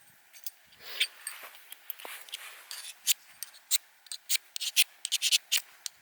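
A run of short, sharp scraping strokes, irregular at first and coming faster in the second half.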